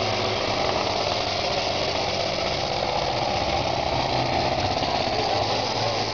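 Competition pulling tractor's engine running steadily, a dense rapid knocking beat with no clear rise or fall in revs.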